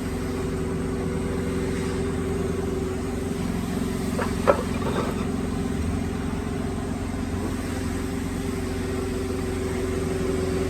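Electric motor of a woodworking drilling machine running steadily with a constant hum, and one sharp click about four and a half seconds in.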